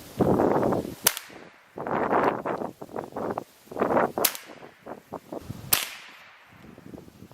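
Three sharp cracks of an axe striking wood, about a second in, past four seconds and near six seconds, with swells of rough rustling noise between them.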